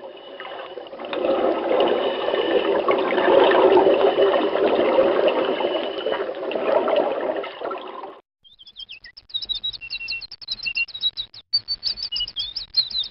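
A steady rush of running water for about eight seconds that cuts off abruptly, then small birds chirping in quick, high, repeated notes.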